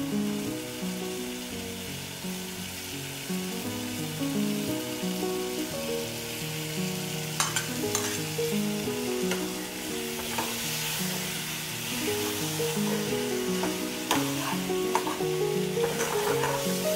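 Water spinach and potatoes sizzling as they fry in an aluminium pot, with a metal ladle clinking and scraping against the pot when chopped tomatoes are pushed in about seven seconds in, and again as the mix is stirred near the end. Background music plays throughout.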